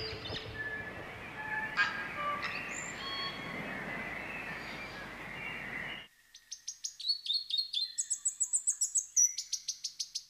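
Birds calling over a steady outdoor hiss; about six seconds in the background cuts off abruptly and a bird sings a fast series of sharp, repeated chirps and trills.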